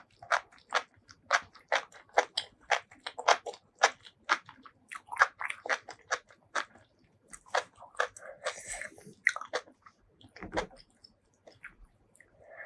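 Close-miked chewing and biting of spicy food, a rapid run of crisp wet chewing clicks at about three a second that thins out after about seven seconds. A brief soft hazy sound follows, then a single dull knock near the end.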